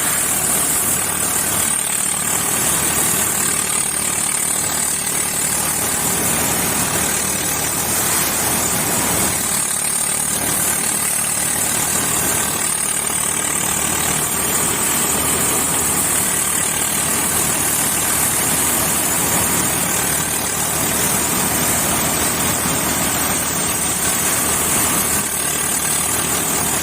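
Combine harvester running steadily while it harvests a mustard crop: a loud, even mechanical noise of engine and machinery with a steady high hiss, unchanging throughout.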